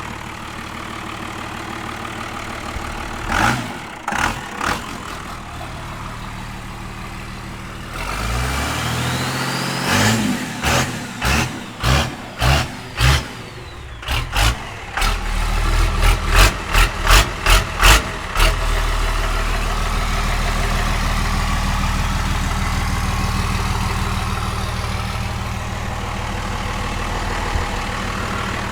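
Cummins diesel engine in a Toyota Land Cruiser 80 Series, fitted with a custom side-exit exhaust, starting up about eight seconds in. It is revved in a quick series of throttle blips, then settles into a steady idle.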